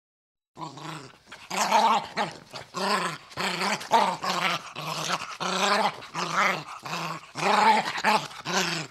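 Domestic dog growling in a rapid series of short, rough snarls, starting about half a second in and running on at one to two a second.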